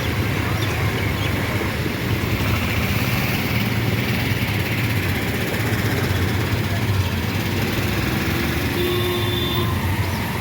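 Road traffic: vehicles running past with a steady low rumble and constant hiss, and a faint steady tone near the end.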